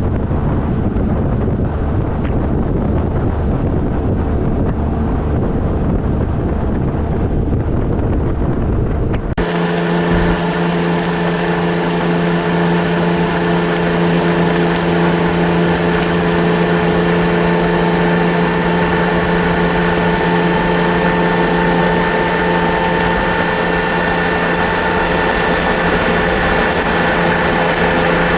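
Motorcycle riding at a steady speed: the Triumph Trophy SE's inline-three engine humming under heavy wind rumble on the microphone. About nine seconds in the sound changes abruptly to a steady engine hum with held tones and a hiss of wind, with less low rumble.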